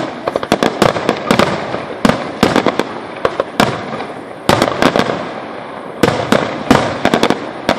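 Aerial firework shells bursting in a dense finale barrage: sharp bangs come in quick clusters every second or so, each trailing off in a lingering rumble.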